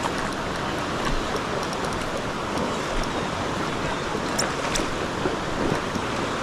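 Steady rush of river current flowing over rocks, with two brief faint high ticks past the middle.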